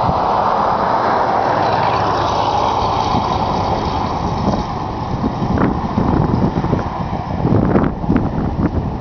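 A road vehicle passing by, its noise swelling and then fading over the first few seconds, followed by gusty wind rumbling on the microphone.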